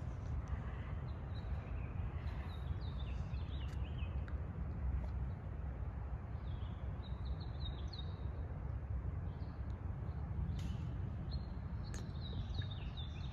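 Birds singing in short chirping phrases that recur every few seconds, over a steady low rumble.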